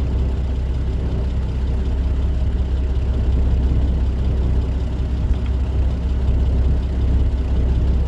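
Dump truck's diesel engine running steadily, a deep, even drone heard inside the cab.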